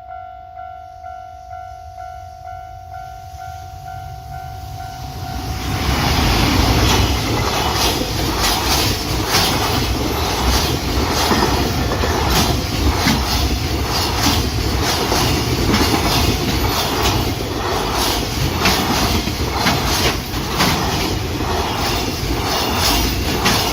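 A level-crossing warning bell ringing in a steady repeating tone; about six seconds in, a freight train arrives and passes close by, its wheels clattering rhythmically over the rail joints, loud enough to bury the bell.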